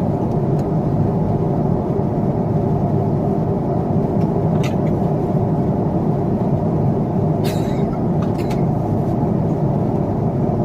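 Steady in-flight cabin noise of an Airbus A350 airliner: the low drone of engines and airflow heard from inside the cabin, with a few faint clicks about halfway through.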